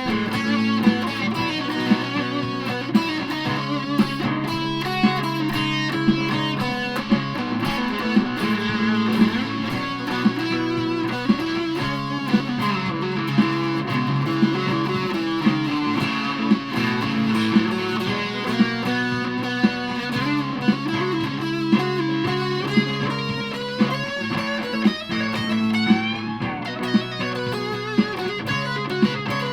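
Aria Pro II Thor Sound electric guitar played through a Joyous Dream super fuzz pedal: distorted melodic lines and sustained notes over a backing track with a steady beat and bass line.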